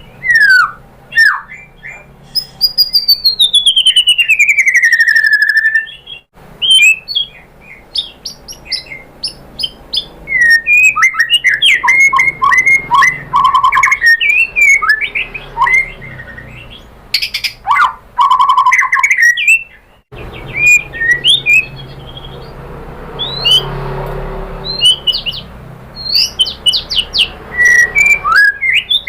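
White-rumped shama singing a varied song: a long falling whistle early on, then rapid trills and chattering notes with sharp clicks between phrases. The song breaks off for a moment about twenty seconds in and picks up again.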